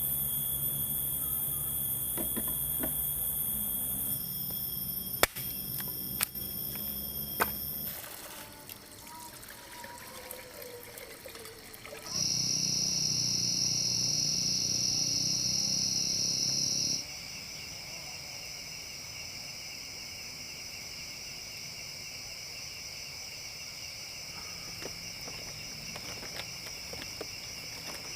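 Forest ambience in short clips that change abruptly every few seconds: steady high insect buzzing with trickling water. A few sharp clicks come between about five and seven and a half seconds in.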